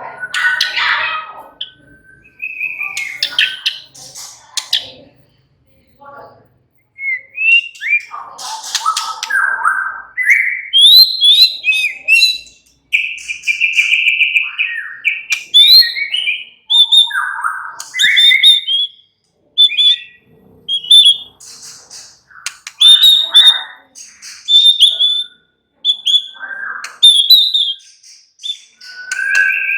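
White-rumped shama singing a varied song of short clear whistles and quick chattering phrases, with brief pauses between them and one held whistle about thirteen seconds in.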